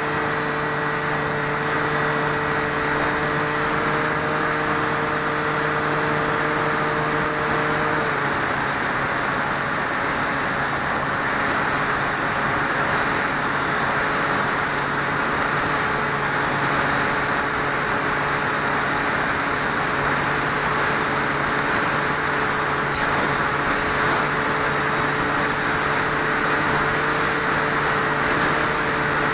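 Onboard sound of a Swift 2 flying wing in flight: its electric motor and propeller run with a steady hum under a rush of wind over the camera's microphone. The motor's tone drops back about eight seconds in, as if throttled down, and grows slightly stronger again near the end.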